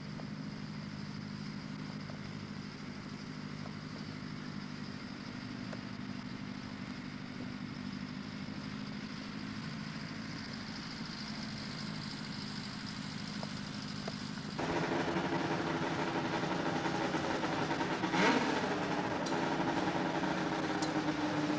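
Snowmobile engines running steadily. About two-thirds of the way through, the sound jumps abruptly to a louder, higher steady engine note, with a brief sharp crack a few seconds later.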